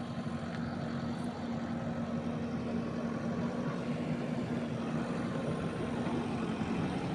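Tractor diesel engine running steadily at an even speed, with a constant low hum.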